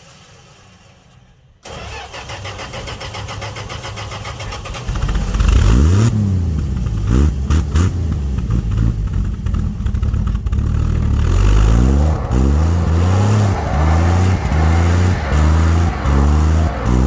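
Dodge D100 pickup's slant-six engine idling low, then revving up about a second and a half in. From about five seconds it is revved hard in repeated surges, rising and falling about once a second, as the truck strains to drive out of ice frozen around its tyres.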